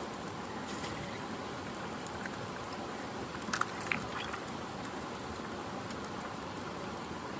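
Steady rushing of a mountain stream's flowing water. A few sharp clicks and a brief high chirp come through it about three and a half seconds in.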